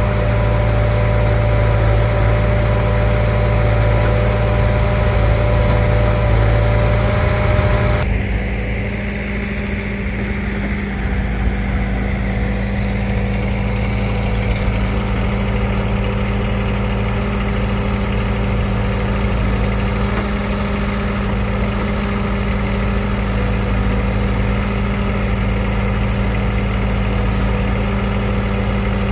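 Diesel tractor engine running steadily at idle, its sound changing abruptly about eight seconds in.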